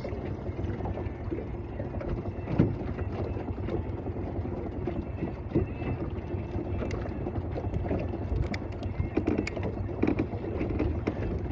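Steady low wind noise buffeting the microphone in a boat, with scattered small clicks and knocks, the sharpest about two and a half seconds in.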